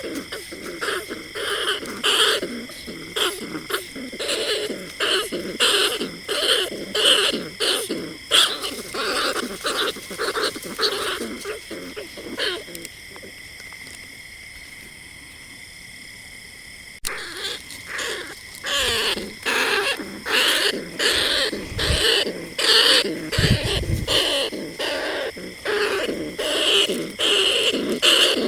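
Bandicoot rat calls: a fast run of short squeaking calls, a recording used as a lure for the rats at night. The calls stop for a few seconds around the middle, then start again after a sharp click.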